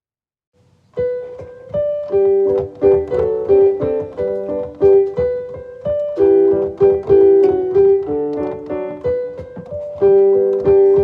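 Piano music, a flowing run of many short notes, starting about a second in after a moment of silence.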